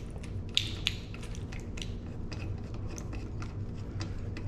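Light metallic clicks and taps of bike parts and an Allen wrench being handled while handlebars are fitted to a BMX stem, two of them a little louder about half a second and a second in, over a steady low hum.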